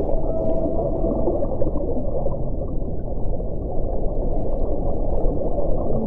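Wind blowing steadily in a low, dense rush, with a faint whistling tone held through about the first second.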